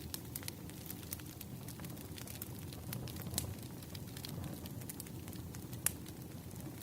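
Wood fire crackling: irregular small pops and snaps over a low steady rumble, with a louder pop about halfway and another near the end.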